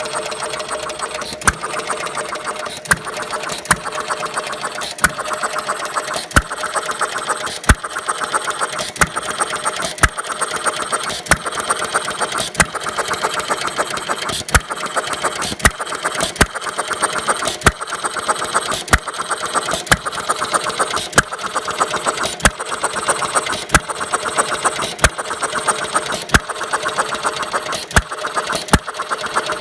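1/3-scale Galloway hit-and-miss engine running, with a sharp firing bang about every second and a half and a steady mechanical clatter as it coasts between firings.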